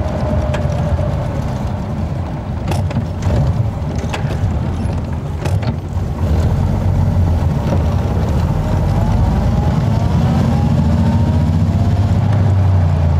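Steady in-cabin drone of a 1927 Rolls-Royce 20hp's six-cylinder engine and road noise as it drives towing a caravan, with a few sharp clicks in the first half. From about seven seconds in, a faint whine rises in pitch and the drone grows a little louder as the car picks up speed.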